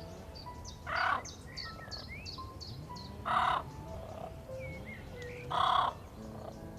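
A large bird calls three times at even intervals, each a short, harsh call. Quick high chirps from smaller birds fill the gaps, over soft background music.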